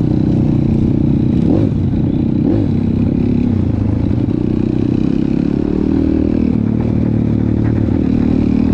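Trail motorcycle engine running steadily under load, its pitch rising and falling a little with the throttle.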